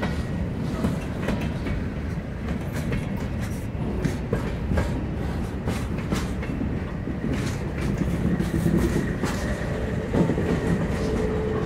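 Freight train rolling past close by: covered hoppers and boxcars rumbling and clicking over the rail joints. Near the end a mid-train diesel locomotive (distributed power unit) comes alongside, adding a steady engine tone.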